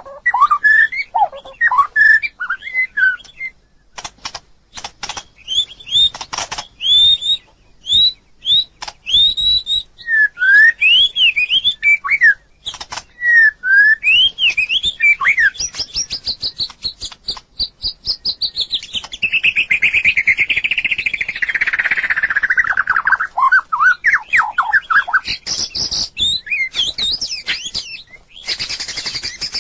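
White-rumped shama singing: a varied run of clear whistled phrases broken up by sharp clicking notes. About halfway through comes a long rapid trill that slides steadily down in pitch.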